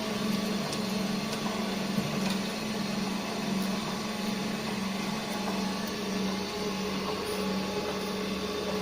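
Motor of a GD 450Q circular saw blade grinder running with a steady hum, as the grinding wheel is fed in to sharpen a tooth. A few faint ticks sound over it.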